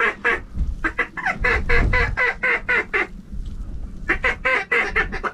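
Mallard quacking in quick runs of short, evenly spaced notes, about five a second, pausing briefly near the end, with wind rumbling on the microphone.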